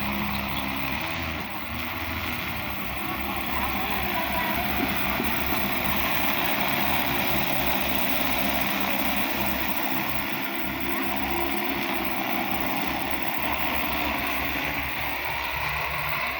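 Crop-spraying drone's rotors droning steadily as it flies over the field.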